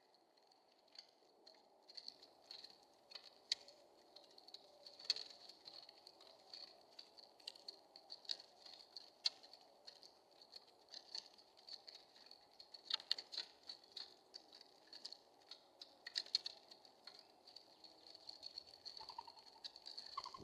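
Bird pecking and shuffling at a Bird Buddy feeder, heard close up through the feeder camera's built-in microphone: irregular small taps and clicks of beak and feet on the plastic seed tray, several a second, over a faint steady high hum.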